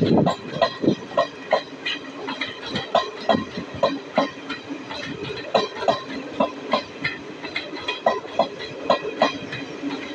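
Garib Rath express AC sleeper coaches rolling past, their wheels clicking over the rail joints in a quick, uneven clickety-clack over a steady rumble.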